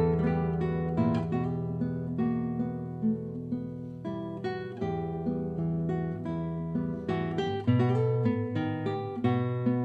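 Acoustic guitar music, plucked and strummed chords with a bass line.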